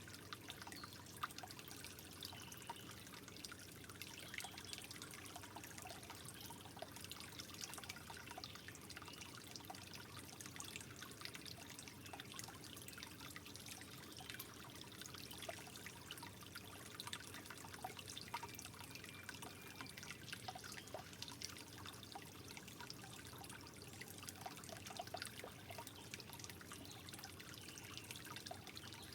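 Gentle water trickling and dripping steadily and softly, with many small quick splashes.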